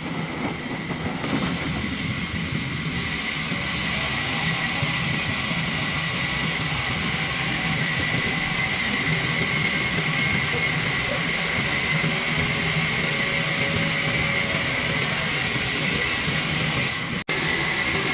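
Sawmill saw cutting a log lengthwise into planks: a steady, hissing, high-pitched cutting noise that builds over the first three seconds and then holds steady. It breaks off for an instant about a second before the end.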